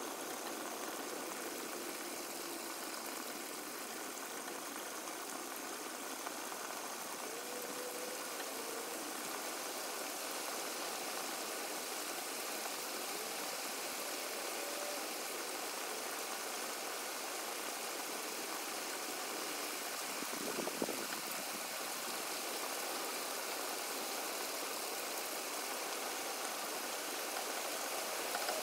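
A steady, even hiss, with a few faint short whistle-like tones and one brief knock about twenty seconds in.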